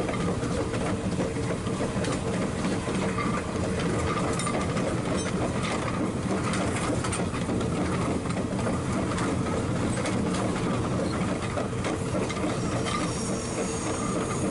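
Train running along the rails: a steady rumble with a held tone and scattered clicks from the wheels on the track.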